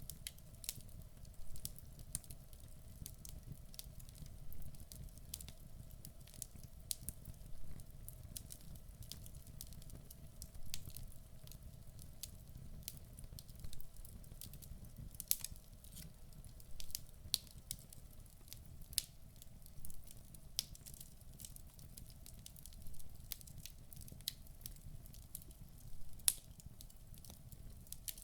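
Wood fire burning in a fireplace: logs crackling, with irregular sharp pops several times a second over a low steady rumble of the flames.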